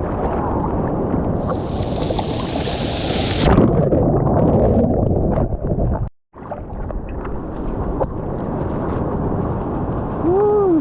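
Water rushing and wind buffeting a GoPro's microphone in the surf, with a louder spray-like hiss a couple of seconds in. The sound drops out briefly about six seconds in, and a short rising-and-falling pitched sound comes near the end.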